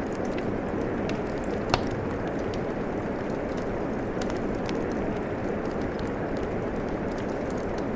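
Fireplace crackling over steady falling rain: a constant rushing hiss with scattered small crackles and one louder pop about two seconds in.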